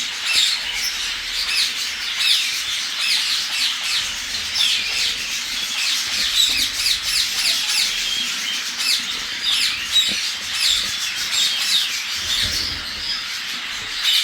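A group of African grey parrots squawking and calling together in a dense run of short, overlapping high calls; the birds are agitated, by their keeper's account.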